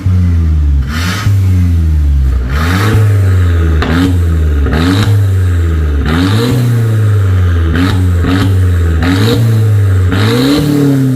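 Mercedes-Benz C250 (W204) with a full aftermarket valvetronic exhaust, revved in repeated short blips, rising and falling about every second and a half.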